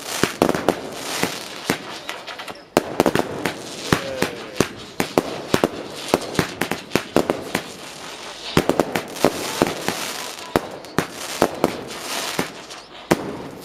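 Fireworks going off in a rapid, irregular string of sharp bangs over a continuous crackle, with a short lull a little before three seconds in before the bangs resume loudly.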